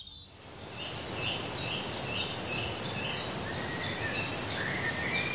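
Outdoor field ambience: a steady rush of wind noise, with a bird repeating a short, high, falling two-part note about three times a second.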